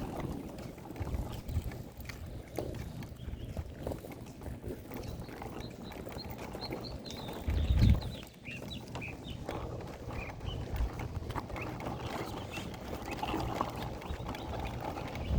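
Outdoor walking sounds: irregular footsteps or wheels on pavement, with wind buffeting the microphone and one louder gust about eight seconds in.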